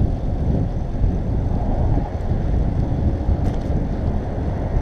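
Wind rumbling on the microphone of a moving bicycle rider: a steady low noise with no clear events.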